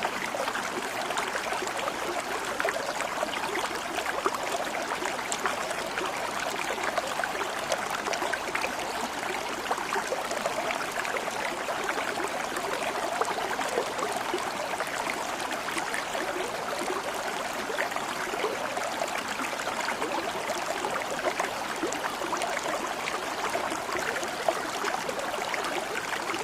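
Water flowing steadily: an even rush sprinkled with fine splashy ticks, with no change in level.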